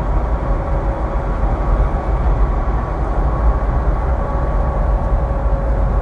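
Semi truck on the highway: a steady low rumble of engine and road noise with a faint constant whine, unchanging throughout.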